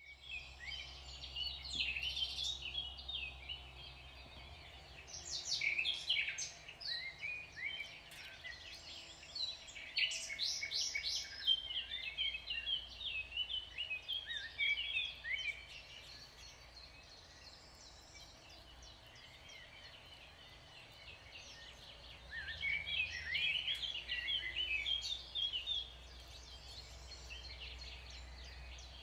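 Small songbirds chirping and warbling in bouts of quick, high notes, busiest near the start, through the middle and again near the end, over a steady low background hum.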